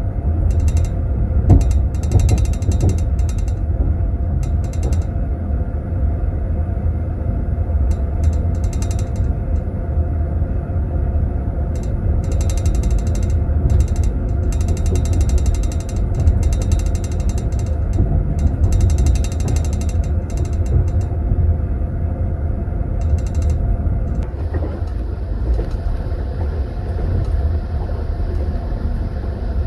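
Steady low rumble of a passenger train's running gear heard inside a compartment car, with stretches of rapid high rattling as teaspoons jingle in tea glasses in metal glass holders. The rattling comes and goes and stops about 24 seconds in.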